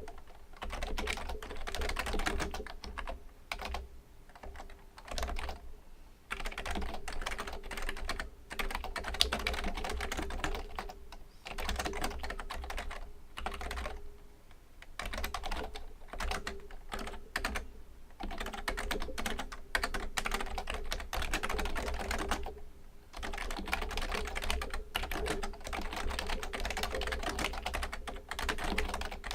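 Typing on a Fujitsu Component Libertouch, an older-model high-end membrane keyboard: fast runs of key strokes broken by a few short pauses.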